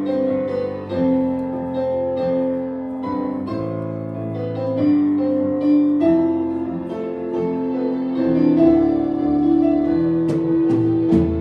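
Instrumental worship music led by piano, held chords changing every second or so, with a few sharp percussive hits near the end.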